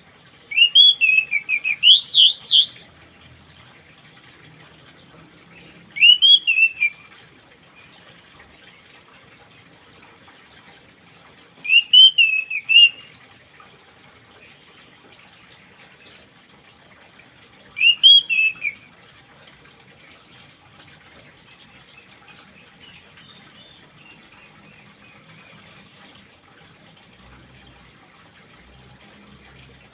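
Orange-headed thrush song: four short phrases of quick repeated whistled notes, about six seconds apart, over a steady trickle of running water.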